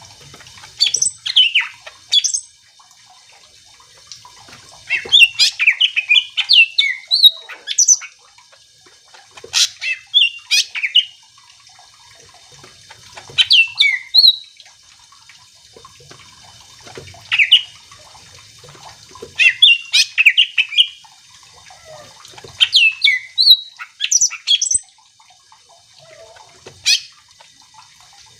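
Cucak ijo (green leafbird) singing vigorously. It gives about eight separate phrases of quick chirps and whistled notes, some gliding upward, with short pauses of a few seconds between them.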